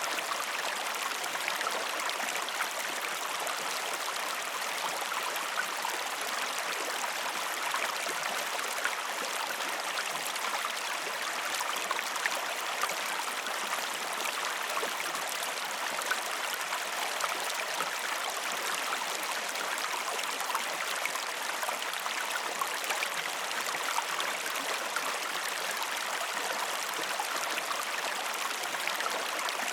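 A river flowing: a steady rush of running water with fine splashing and trickling all through.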